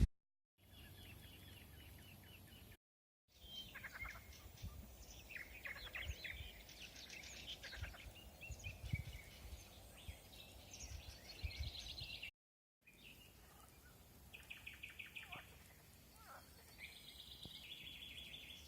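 Several songbirds singing and calling: short chirps and rapid trills from more than one bird, over a faint low rumble. The sound cuts out completely three times, briefly each time.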